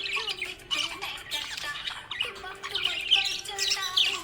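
Budgerigar chattering: a continuous stream of quick chirps, squawks and warbles, over a steady low tone.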